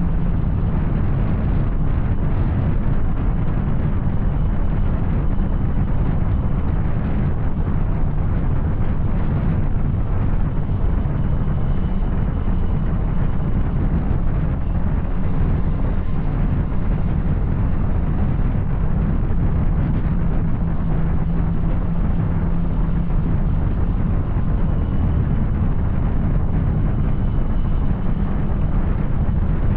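Yamaha Tracer 900's three-cylinder engine running through an Arrow aftermarket exhaust as the motorcycle rides along at a fairly steady engine speed, with road and wind noise under it.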